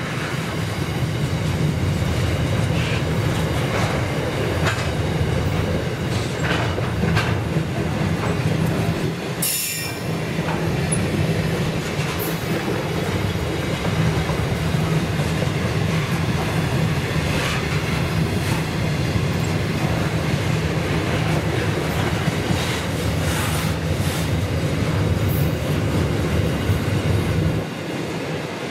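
Freight train's container and flat wagons rolling past close by: a steady low rumble of steel wheels on rail, with scattered sharp clicks and clanks as the wheels cross rail joints. One clank about a third of the way through is the loudest, and the rumble drops off near the end.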